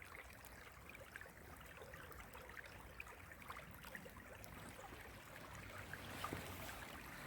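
Shallow creek water trickling faintly, with many small scattered plinks and gurgles. A soft, broader rush rises near the end.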